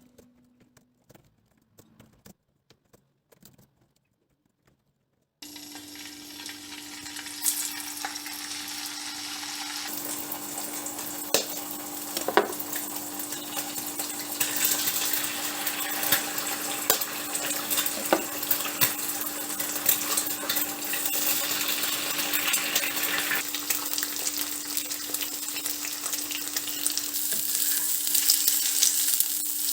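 Near silence with a few faint clicks, then about five seconds in, food starts frying in a pan. The sizzle is steady and grows louder about ten seconds in, with a few sharp clicks and a steady low hum underneath.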